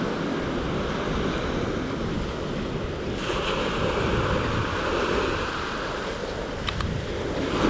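Sea surf washing onto a beach, a steady rushing wash of waves that swells and eases, with wind buffeting the microphone.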